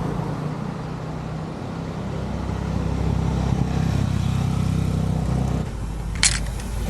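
Honda CB-350 motorcycle engine running steadily while riding, with road and wind noise. The engine eases off briefly near the end, and there is a short sharp click.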